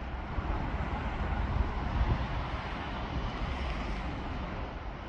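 Great Northern Class 717 electric multiple unit running past on the station line: a steady rushing rumble of wheels and train, swelling a little about two seconds in.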